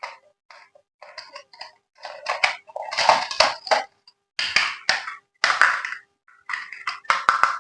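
Toy packaging being handled and opened: irregular rustling and crinkling in uneven bursts, with a few sharp clicks.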